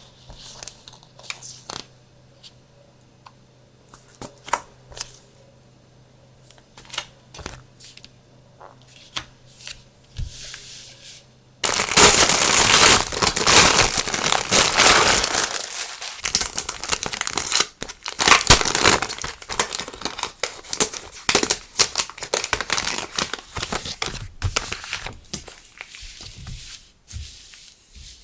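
Light taps and clicks of stationery items being handled, then, about a third of the way in, a sudden start of loud continuous crinkling as packaging is opened and handled, thinning out toward the end.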